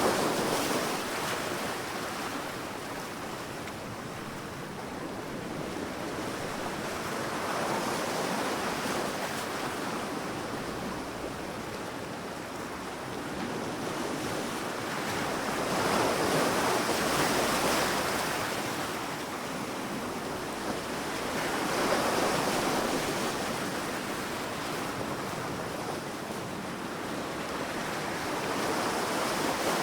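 Sea waves breaking and washing up a sandy shore: a rushing hiss that swells and fades in slow surges about every six to eight seconds.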